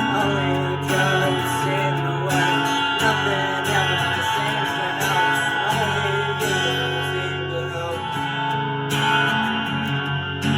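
Live band music led by guitar, with plucked and strummed notes over sustained low bass notes.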